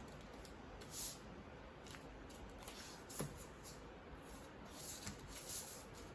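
Square origami paper being folded and creased by hand: a few brief, faint rustles and crinkles, with one sharper crackle about three seconds in.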